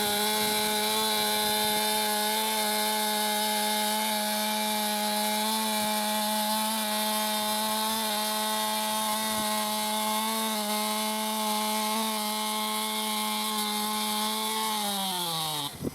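Chainsaw held at steady high revs while cutting into a log along a scribe line. Near the end the revs fall off sharply.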